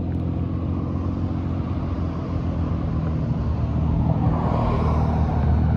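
Steady low rumble of a running car engine, with road noise swelling near the end as traffic passes.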